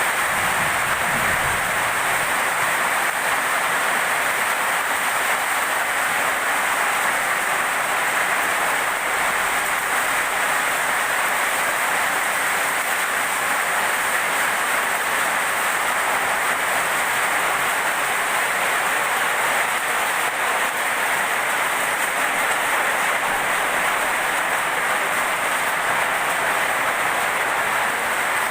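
Heavy rain pouring down in a steady, unbroken hiss during a storm.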